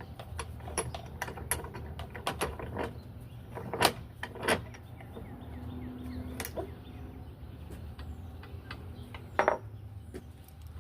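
Scattered clicks and knocks of a tool and parts being handled at a workbench, with a few louder knocks about four seconds in and again near the end, over a steady low hum.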